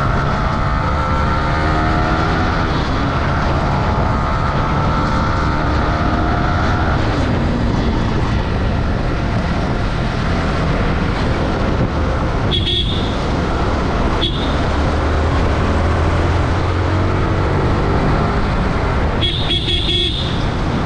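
Motorcycle riding along a road, its engine running under steady wind and road noise, the engine note dropping about seven seconds in. Short high-pitched horn beeps come twice in the middle and in a longer run near the end.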